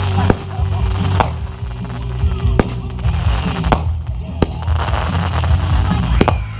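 Fireworks going off: about six sharp bangs a second or so apart, with stretches of crackling between them, over music with a heavy bass.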